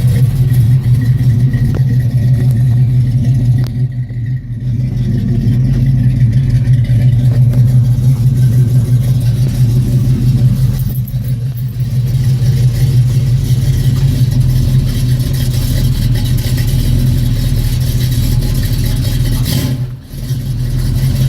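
1986 Chevrolet Monte Carlo SS V8 running at idle through dumped exhaust with turndowns, its small cam audible in the idle. Steady loud exhaust note that dips briefly three times.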